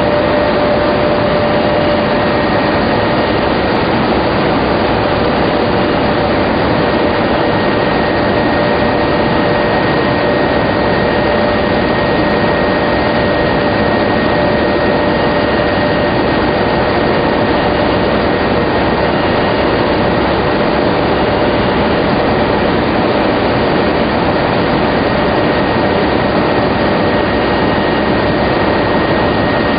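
Industrial machinery of a tobacco lamina flash-drying line running steadily: a loud, even roar of air-moving equipment with two steady whining tones over it.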